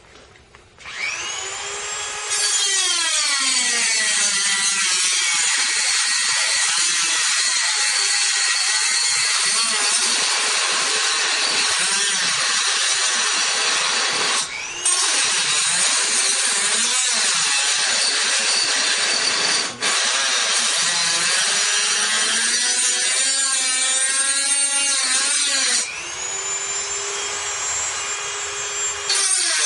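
An electric grinder spins up with a rising whine and grinds steadily on the steel of a motorcycle muffler, being modified to cut its restriction. It winds down with a falling whine near the end, then spins up again.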